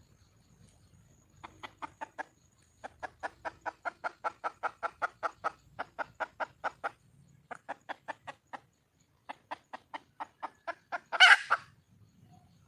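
Red junglefowl hen clucking in rapid runs of about four to five clucks a second, broken by short pauses, with one louder, harsher call near the end. This is a hen calling for a mate.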